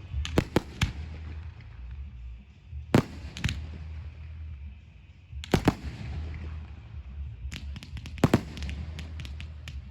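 Fireworks going off: single sharp bangs every second or two, then from about three quarters of the way through a fast run of many small crackling pops, with music playing underneath.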